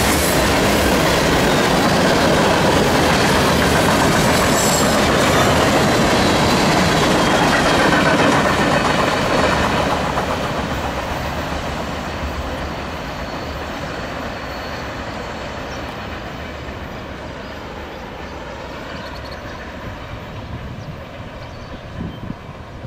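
Freight cars of a CSX manifest train rolling past close by, their steel wheels clattering over the rail joints. About ten seconds in, the sound begins to fade steadily as the end of the train moves away.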